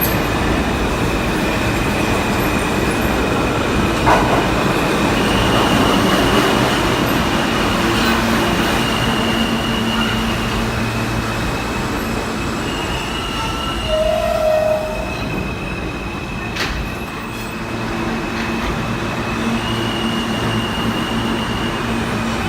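New York City subway train running along the track with a steady rumble, its wheels squealing in high steady tones that come and go. There is a sharp knock about four seconds in.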